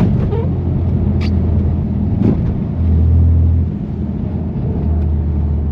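BMW F80 M3 Competition's twin-turbo inline-six, fitted with catless downpipes and an always-open valved exhaust, droning steadily at low revs while driving, swelling louder for about a second midway through. A few short sharp clicks sound over it.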